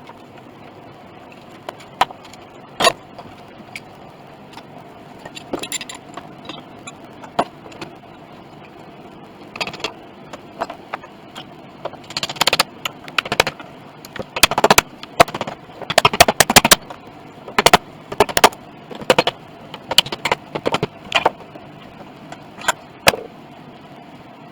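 Irregular sharp clicks and clinks of small hard objects being handled, sparse at first and crowding together in the middle, over a steady background hum.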